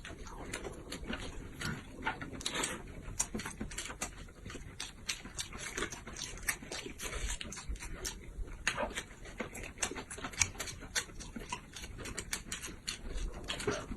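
Close-miked eating: irregular chewing, crunching and lip-smacking of someone eating flatbread rolled around vegetables, many small clicks in quick succession.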